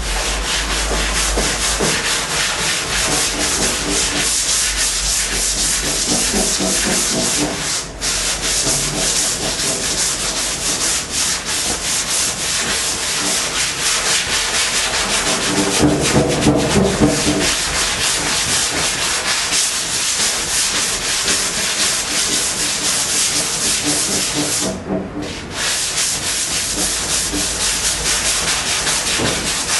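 Sandpaper on a hand sanding block rubbed back and forth over cured body filler on a car's quarter panel, block-sanding it level. The sanding stops briefly about eight seconds in and again near twenty-five seconds.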